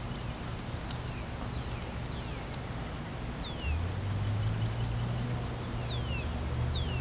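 Bird chirping: a run of short, high, thin chirps, many sliding down in pitch, coming about twice a second. A low steady hum comes in a little past halfway.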